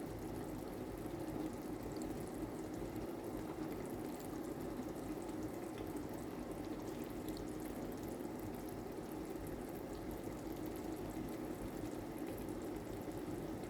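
Pot of chicken masala simmering on the stove: a steady bubbling noise with faint scattered crackles.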